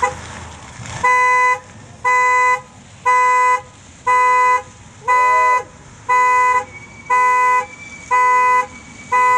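A vehicle horn sounding in short blasts about once a second, the steady pulsing pattern of a car alarm, nine honks in all starting about a second in. A brief rising-and-falling tone sounds under the middle honk.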